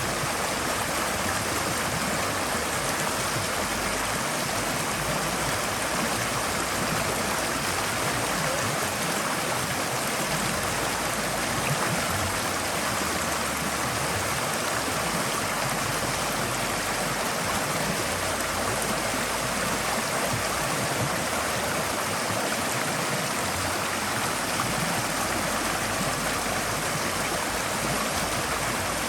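Forest stream flowing steadily over rocks, a continuous even rush of water with light gurgling.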